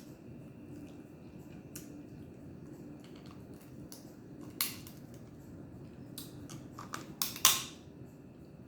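Close-up eating sounds from a seafood mukbang: quiet chewing with a few sharp clicks and cracks, the loudest about halfway through and twice near the end.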